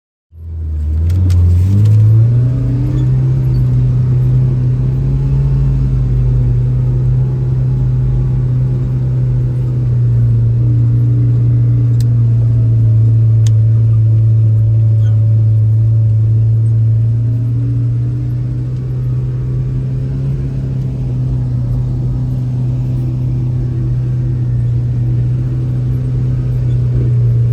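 Kawasaki six-seater side-by-side's engine pulling away, its hum climbing in pitch over the first couple of seconds, then running steadily at cruising speed with slight rises and falls.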